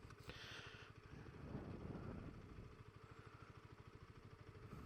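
KTM RC 125's single-cylinder engine idling faintly, with a steady, even low pulse.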